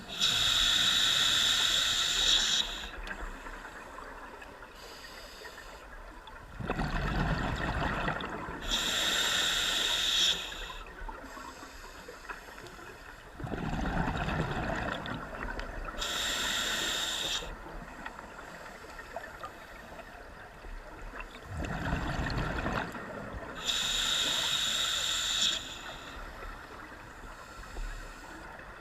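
Scuba diver breathing through a regulator underwater: a hissing inhale through the demand valve, then a burst of exhaled bubbles, repeating every seven to eight seconds. There are four inhales and three bubble bursts.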